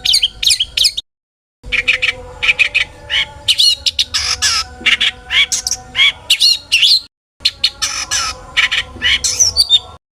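Long-tailed shrike (cendet) singing a fast, varied chattering song of sharp chirps, harsh squawks and quick gliding notes, the mimicry-filled song that is played to provoke other shrikes into singing. The song cuts off abruptly twice, about a second in and again near seven seconds, into dead silence before resuming.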